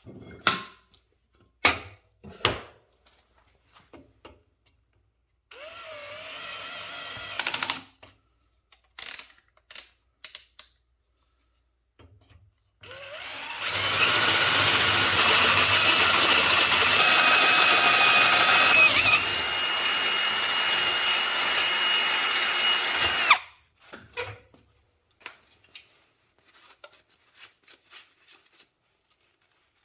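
Cordless drill boring out a hole in a miniature locomotive's metal chassis to take a 1/2-inch bolt. A short run comes first, then a loud steady run of about ten seconds whose whine steps in pitch twice before it cuts off sharply. Clicks and knocks of handling come before and after.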